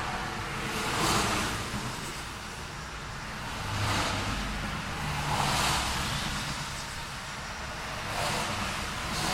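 Road traffic with cars passing one after another, each a swelling and fading whoosh of tyres and engine, about five passes over a steady low engine rumble.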